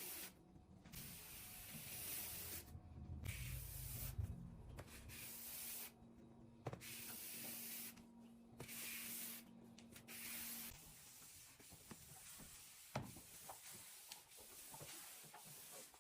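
Faint cleaning sounds: a hiss that comes and goes in stretches, with light rubbing and a few small clicks.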